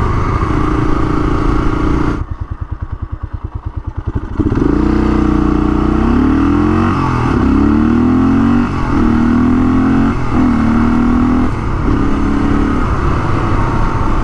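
1982 Honda XL500R's single-cylinder four-stroke engine, heard from the bike while riding. It runs at speed, then drops to low revs for about two seconds with each firing pulse distinct. It then accelerates hard, its pitch rising and falling back at each of several gear changes.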